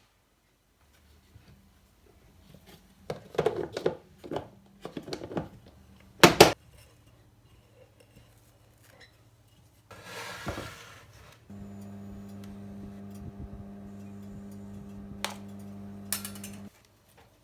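Kitchen dishes and utensils clinking and knocking during food preparation, with one loud sharp knock about six seconds in and a brief scraping rush later. Near the end a steady hum runs for about five seconds and then stops abruptly.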